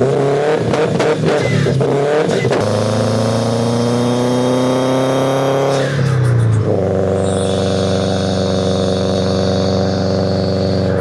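Subaru WRX's turbocharged flat-four engine and exhaust under way: uneven revs with crackles at first, then the engine note climbs steadily as the car accelerates, drops sharply about six seconds in, and settles into a steady cruising drone.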